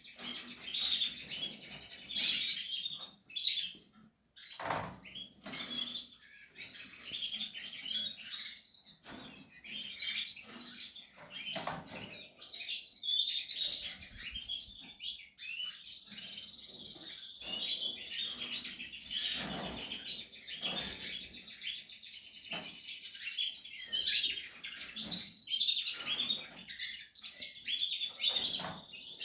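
Portuguese harlequin canaries chirping and calling, a busy run of short high chirps and warbles that barely pauses. Now and then a short rustle from the birds moving in the cage, loudest about 5, 12 and 20 seconds in.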